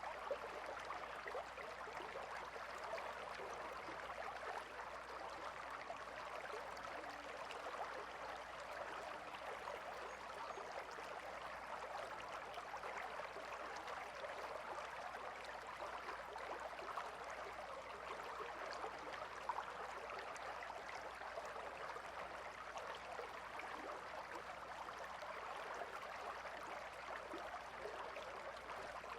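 River water flowing and babbling steadily over stones, an even rushing with fine splashing detail.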